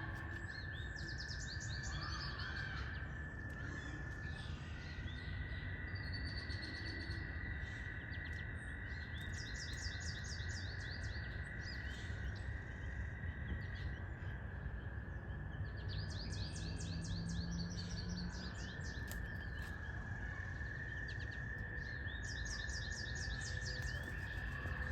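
Songbirds singing in short, rapid trilled phrases that repeat every few seconds, over a steady high-pitched drone and a low outdoor rumble.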